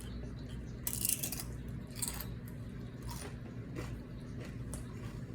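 Crunching on chips while eating: a few short, crackly crunches, the biggest about a second in, over a steady low room hum.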